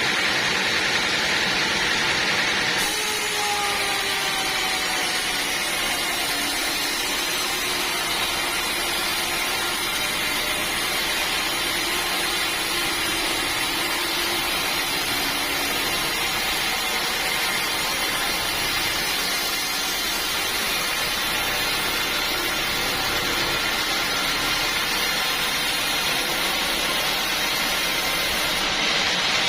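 Sawmill saw running steadily through a teak log, with a faint tone sliding slowly down in pitch starting about three seconds in.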